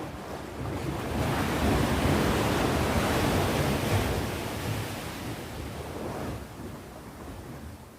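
Sea waves breaking on the shore: a wave builds about a second in, crashes, and washes away over the next few seconds, over a steady low rumble of surf.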